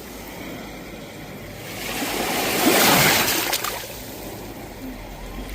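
Sea waves on a shore: a wave swells about two seconds in, breaks loudest near three seconds, then washes back down.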